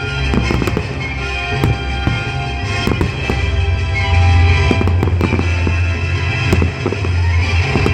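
Aerial firework shells bursting many times in quick succession, with a constant backdrop of loud music.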